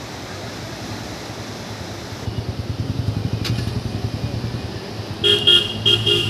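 A motor vehicle's engine rumbling close by, louder from about two seconds in. Near the end a vehicle horn gives four short honks.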